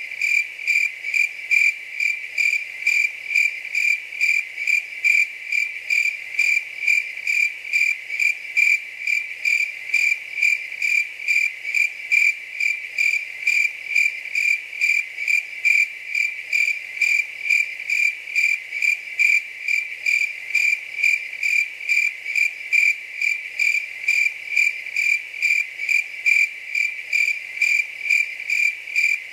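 Cricket chirping steadily on one high pitch, about two to three chirps a second in an even rhythm.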